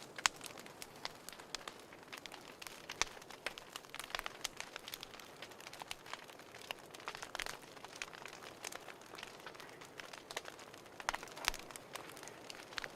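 Fireplace crackling: irregular sharp snaps over a soft steady hiss.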